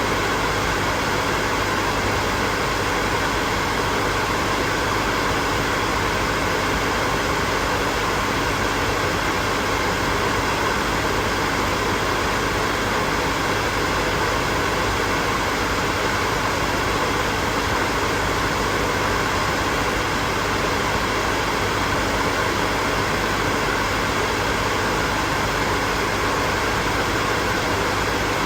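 Hair dryer blowing at a steady, unchanging level: a continuous rushing whoosh of air with a faint motor hum in it.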